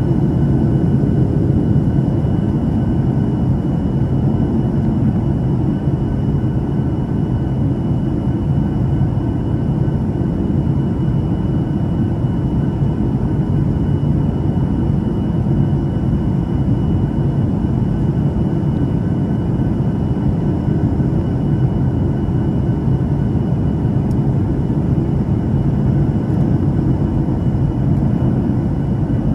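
Steady in-flight noise of a Boeing 737-800 with CFM56 engines on final approach: a dense low rumble of airflow and engines, with a few faint thin steady tones above it.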